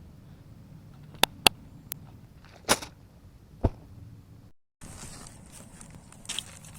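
A few sharp clicks and snaps over a low rustle, then a brief drop to silence and a hissy rustle.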